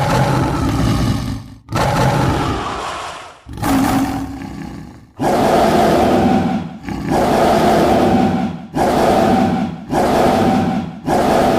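Designed dinosaur roars for the burrunjor, a T. rex-like theropod creature: about eight loud roars in a row, each one to two seconds long, with brief gaps between them.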